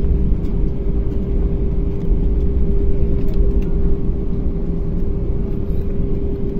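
Jet airliner cabin noise with the engines running before takeoff: a steady low rumble with a constant mid-pitched hum.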